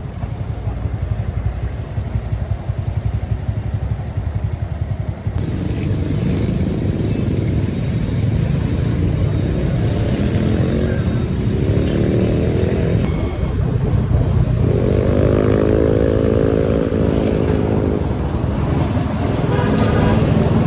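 Motorcycle engine running on the road, with heavy wind rumble on the microphone; an engine tone swells and falls twice in the second half.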